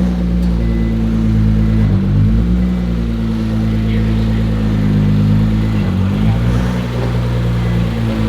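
Nissan GT-R (R35) twin-turbo V6 running steadily while the car is moved, with two brief dips in engine note, about two and six seconds in.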